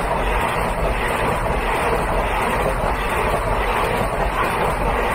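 Steady rushing noise of a moving vehicle and wind, with a low rumble underneath.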